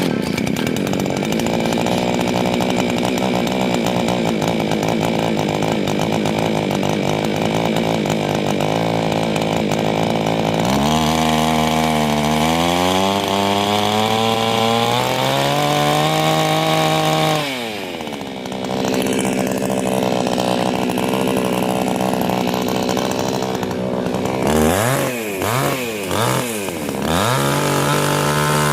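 Small engine running at a steady speed, revving up about eleven seconds in and holding there, dropping back about six seconds later, then revved up and down several times in quick succession near the end.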